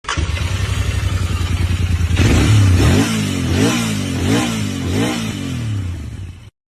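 Royal Enfield Continental GT 650's parallel-twin engine idling through its exhaust, then revved in several quick throttle blips from about two seconds in. The sound cuts off abruptly near the end.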